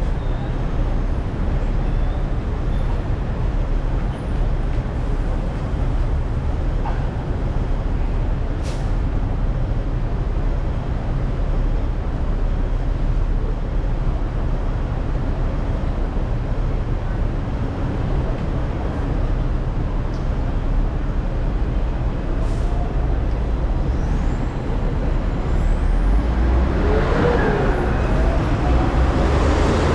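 Hong Kong double-decker tram running along its tracks: a steady low rumble of motor and wheels on the rails. A higher wavering whine joins over the last few seconds as the sound grows a little louder.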